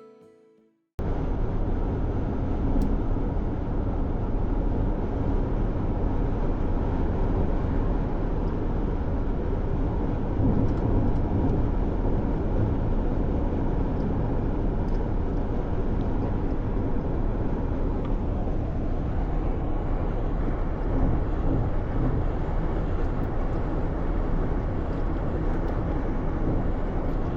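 Steady low rumble and road noise of a moving vehicle, starting suddenly about a second in.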